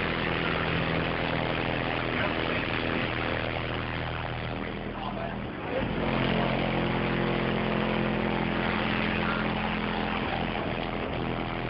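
Car audio subwoofers playing a sustained low bass note. It cuts out briefly about five and a half seconds in and resumes on a somewhat different note.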